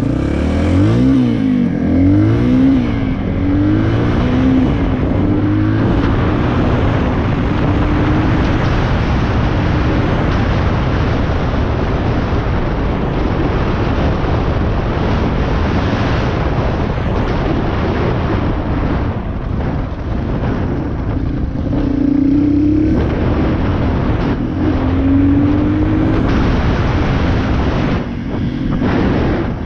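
Dirt bike engine running under load while riding, revving up and down near the start and again about two-thirds of the way through, under a steady rushing noise.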